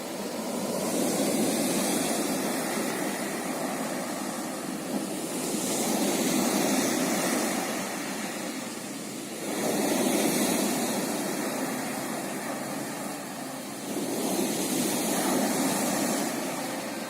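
Sea waves breaking and washing on the shore, swelling four times about every four to five seconds, with a steady surf hiss between.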